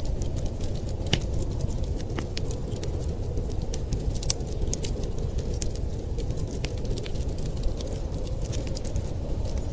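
Wood fire crackling, with irregular sharp pops and snaps, over a steady low rumble of wind.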